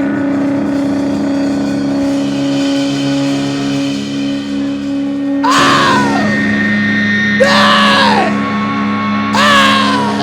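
Rock band playing live and loud: held droning chords, then from about halfway a series of loud falling glides roughly every two seconds.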